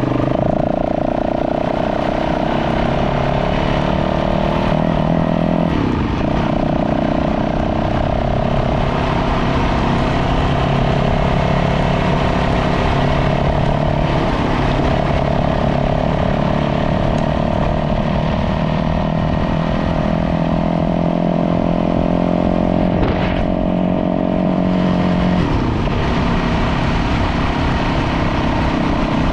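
Dirt bike engine running under way on a trail, heard close up, its note steady for long stretches and breaking to a new pitch a few times.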